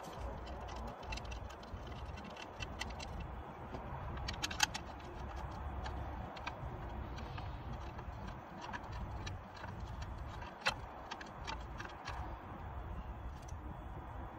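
Irregular light metallic clicks and clinks of hand tools and engine parts being handled during a timing belt job, over a low steady rumble, with sharper clicks about four and a half seconds in and near eleven seconds.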